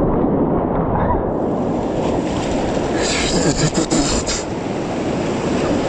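Whitewater rushing loudly around a kayak going over a drop in a creek rapid, with a burst of splashing and a few sharp knocks about three seconds in.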